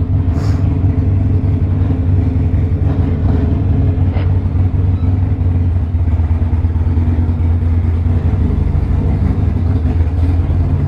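Harley-Davidson Sportster Iron 1200's air-cooled V-twin, through a Two Brothers 2-into-1 exhaust, running steadily at low revs.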